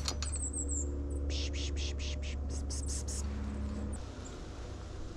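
Golden-crowned kinglets giving very high, thin calls. About a second in comes a rapid run of short hissy clicks, roughly four a second.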